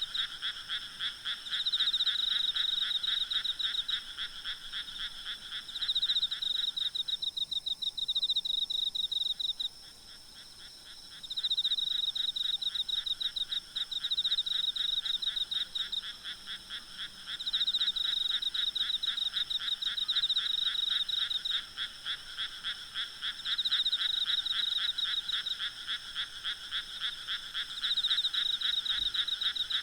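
A night chorus of frogs calling, rapid pulsed calls overlapping in surges a few seconds long, with insects trilling steadily and higher behind them. The lower band of calls drops out for a few seconds near the middle.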